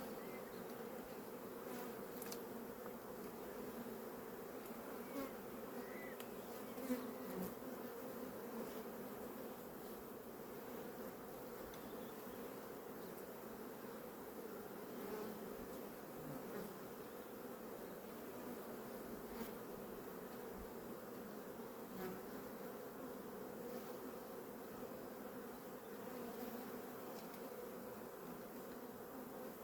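Honeybee colony buzzing steadily from an open hive, an even low hum, with a few faint knocks.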